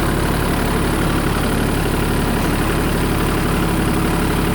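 Kubota compact tractor's diesel engine idling steadily, with no change in speed.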